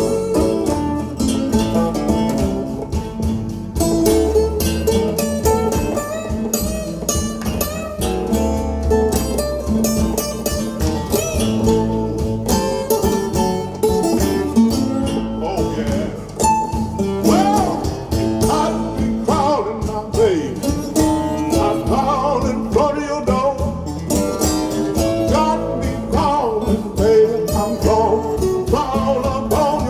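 Recorded blues song with guitar, at an instrumental stretch between sung verses, played back over a hi-fi loudspeaker system in a demo room.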